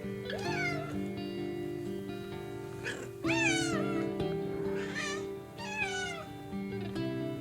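A cat meowing about four times, each call rising and then falling in pitch, the second one the loudest, over background music with long sustained notes.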